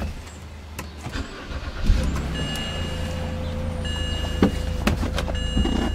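BMW E90 328xi's 3.0-litre inline-six engine being started: it catches with a jump in level about two seconds in and settles into a steady idle, with a few clicks and a faint on-off high tone over it. The engine has a misfire, with the check engine light on.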